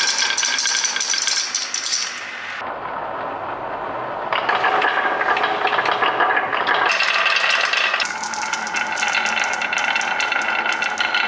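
Marbles rolling and clattering down a marble run, a dense rattle of small hard clicks that shifts in tone every couple of seconds as they move from one section of track to the next, with a quieter stretch about three seconds in.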